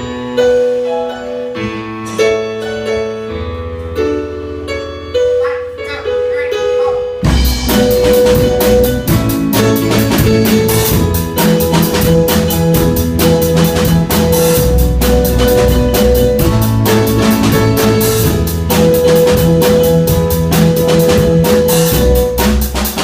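Instrumental band music: a melody of single sustained notes over a low bass, then a drum kit and the full band come in sharply about seven seconds in and play on with a steady beat.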